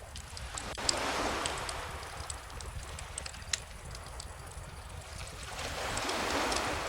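Wood bonfire crackling with scattered sharp pops over calm ocean waves washing in, one wave swelling about a second in and another near the end.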